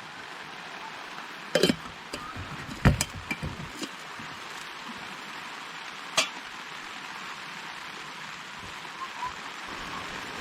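Steady hiss of heavy rain, with several sharp knocks and clicks scattered through it, the loudest about three seconds in.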